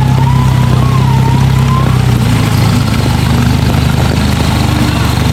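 A 4x4 off-road vehicle's engine running steadily at low revs, a constant low hum with no revving.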